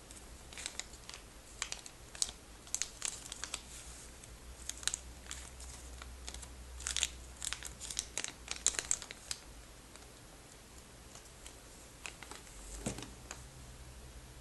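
Crinkly plastic bag being crumpled and handled: a dense run of sharp crackles for about nine seconds, then only a few scattered crinkles near the end.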